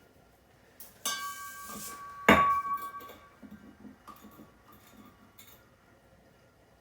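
A short hiss with a faint ringing tone, then a single sharp metallic clink that rings for under a second, followed by a few light clicks: metal tools being handled while the copper tubing of a refrigerator's new evaporator is soldered.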